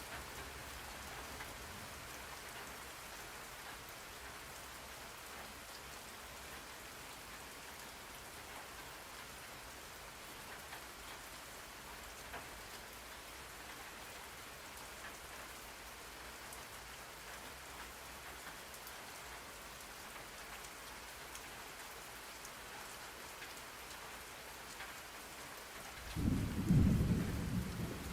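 Steady rain falling, a soft even hiss, with a low rumble of thunder rolling in about two seconds before the end and becoming the loudest sound.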